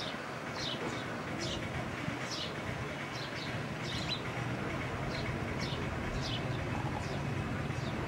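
A small bird calling with short, high, downward-sweeping chirps, about one or two a second, over a steady low hum and hiss.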